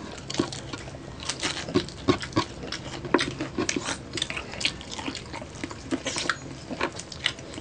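Close-miked chewing of crispy pata (deep-fried pork knuckle): an irregular run of sharp crunches and wet mouth clicks, a few each second.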